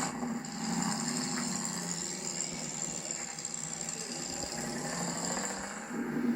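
1965 Ford Fairlane 500's original 289 cubic-inch V8 running steadily while the car is driven.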